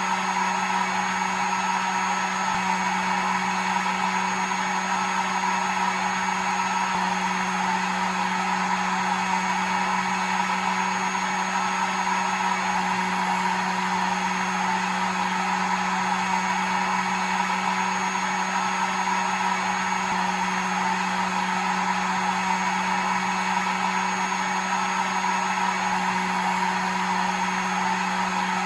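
Hair dryer running steadily: a continuous rush of air over the hum of its small motor, unchanging throughout.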